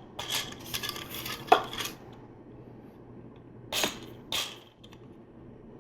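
Plastic LEGO pieces being handled and pressed together: a quick run of small clicks and rattles in the first two seconds, then two more clicks a little before four seconds in, over a faint steady hum.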